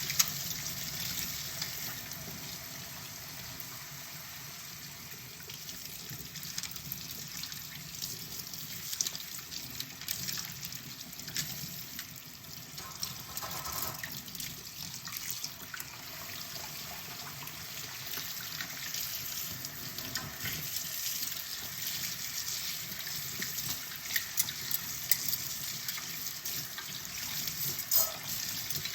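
Tap water running into a kitchen sink while dishes are washed by hand, with small clinks and knocks of tableware scattered through it. The sharpest knock comes near the start and another near the end.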